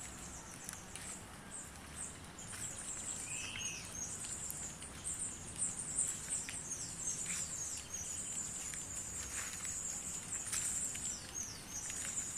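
Small birds chirping in rapid high-pitched series, many short notes falling in pitch, with one lower, rounder call about three seconds in. Short rustling crackles come and go.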